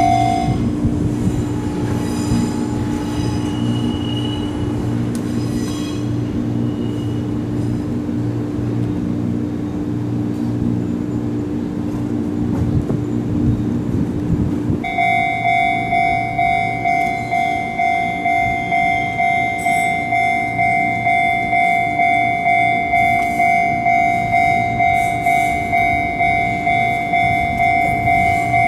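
Fujikyuko Line electric train running, with a steady low hum. About halfway through, a steady ringing tone takes over, pulsing about one and a half times a second.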